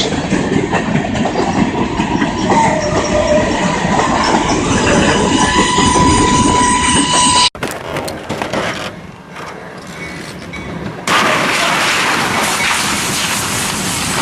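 A train running hard on the rails with steady wheel or brake squeal over a heavy rumble. The squeal strengthens until the sound cuts off abruptly about seven and a half seconds in. After a quieter stretch, a loud even hiss begins near the end.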